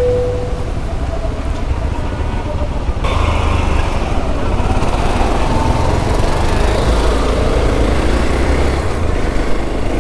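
Hero XPulse 200 motorcycle running on the move, with heavy wind rumble on the helmet camera's microphone. The sound changes abruptly about three seconds in.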